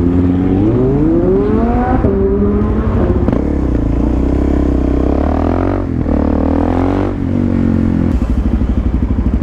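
Suzuki DR-Z400SM single-cylinder four-stroke engine, heard from the rider's seat, revving up through the gears over the first two seconds. It then runs at a fairly steady speed, eases off twice, and drops to a pulsing low idle about eight seconds in.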